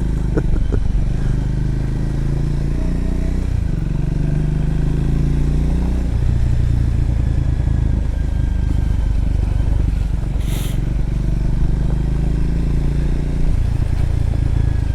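Triumph Scrambler's parallel-twin engine running steadily on a gravel road, its note shifting a few times as the throttle and gears change. A short hiss comes about ten and a half seconds in.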